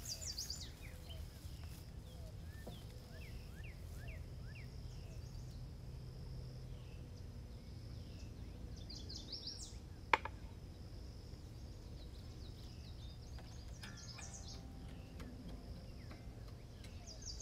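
Birds chirping and singing, many short chirps with a higher phrase repeated every few seconds, over a steady low rumble. One sharp click about ten seconds in.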